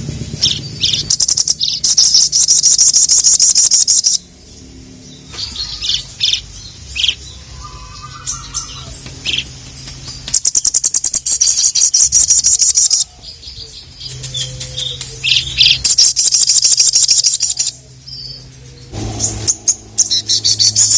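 A sogon (sogok ontong), a sunbird, singing: a run of rapid, high-pitched trills a few seconds long, four of them, with short sharp chips between them.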